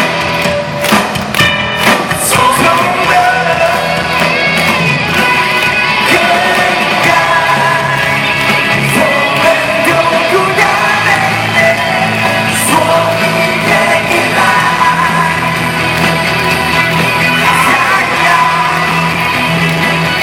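Live pop-rock band music, amplified through an arena sound system, with a male lead vocal singing over it.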